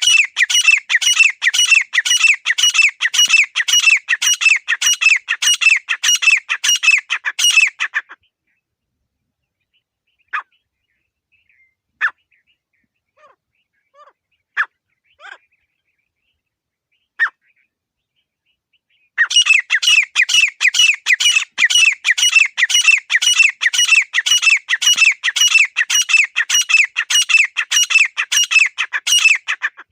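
Grey francolin calling in a rapid run of harsh, evenly repeated notes, about three to four a second. The run stops about eight seconds in, a few single short calls sound in the gap, and the rapid calling starts again at about nineteen seconds.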